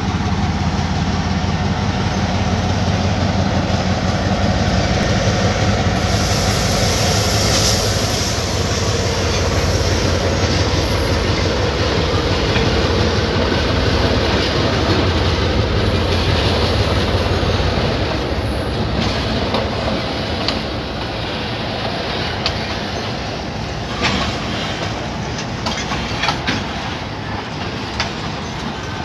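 Freight train passing: a diesel locomotive's low engine drone over the noise of rolling wheels for the first eighteen seconds or so, then the wagons rolling by with sharp clicks of wheels over the rail joints.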